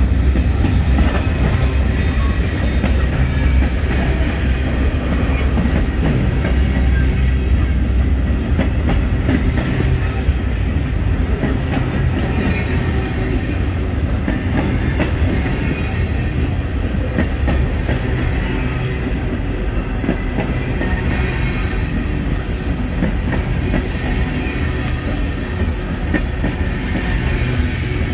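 Freight train cars rolling past close by: a steady rumble of steel wheels on the rails with continuous clickety-clack and rattling.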